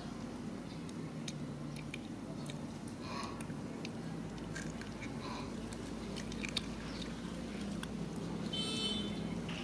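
Soft chewing and small wet mouth clicks of fruit being eaten by a child and a baby macaque, over a steady low hum. A brief high-pitched chirp sounds near the end.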